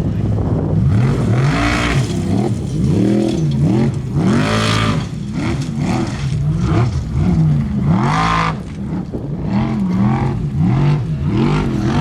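Formula offroad race truck's engine revving hard and falling back over and over, the pitch rising and dropping about once a second. Several short bursts of rushing noise come in over it.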